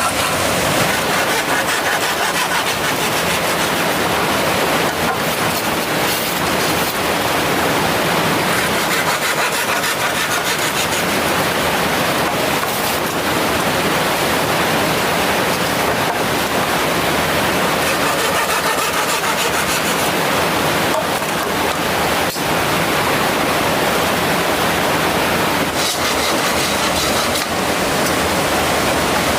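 Steady rush of a mountain stream's flowing water, with a few short knocks now and then.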